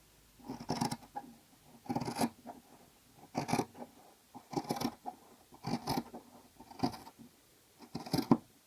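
Scissors cutting through a blanket, about seven snips spaced a little over a second apart.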